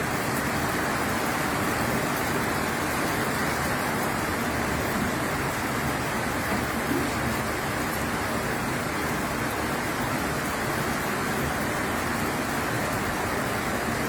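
Steady rain falling in a thunderstorm, an even, unbroken noise.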